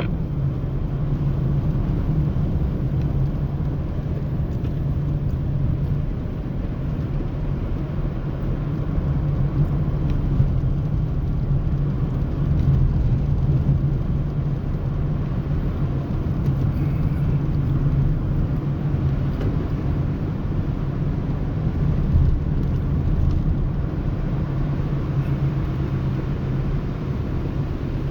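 Car driving at a steady pace, heard from inside the cab: an even engine hum with road and tyre noise.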